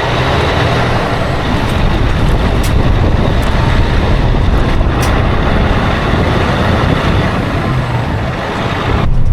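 Loader engine running steadily under load while pushing corn into a packed pile, with a few faint clicks and rattles over it.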